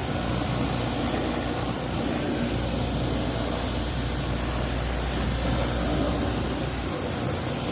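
Hot-water pressure washer spraying mud off a truck's wheel wells and panels: a steady hiss of spray over a low, steady hum, the deepest part of the hum dropping away about seven seconds in.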